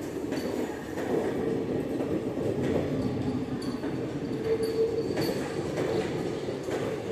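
Kaveri Express passenger train running on the rails: a steady rumble of wheels and carriages, with brief faint high squeaks now and then.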